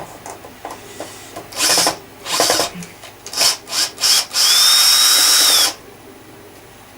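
Cordless power drill or driver run in several short bursts, then one longer run of about a second and a half, its motor whine rising, holding steady and dropping as it stops. It is working at a stubborn part that will not come off.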